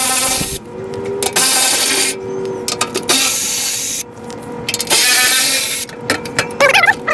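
Cordless power tool with a socket whirring in four short runs of about a second each, backing out the 12 mm bolts that hold a metal skid plate.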